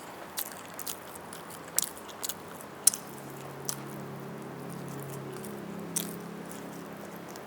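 Close-miked chewing and biting of roast chicken, with sharp wet clicks from the mouth every second or so.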